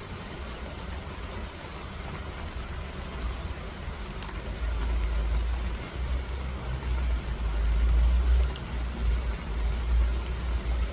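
Steady rain falling with an even hiss. A low rumble swells up about halfway through and becomes the loudest sound.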